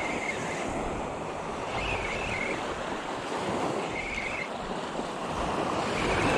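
Gulf surf washing steadily around the wading angler, with wind buffeting the microphone. A short high squeak recurs about every two seconds.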